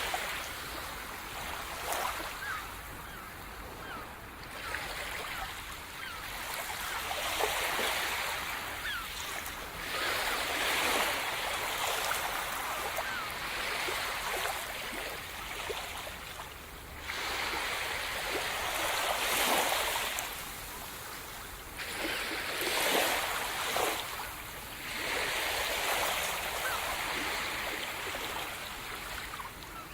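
Sea surf: waves breaking and washing up the shore, the wash swelling and fading every few seconds.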